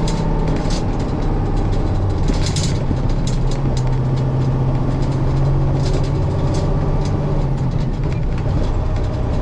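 Semi-truck's diesel engine running steadily while driving, heard from inside the cab, its low hum shifting pitch a little partway through, with scattered light rattles and clicks.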